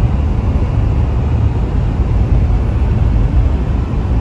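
A car driving along, its engine and tyre noise making a steady low rumble.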